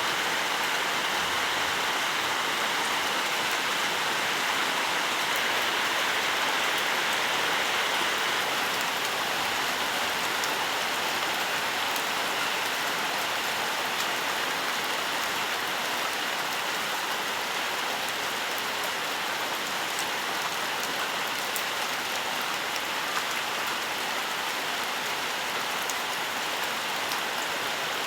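Steady rainfall, an even hiss of rain with scattered individual drops ticking on surfaces.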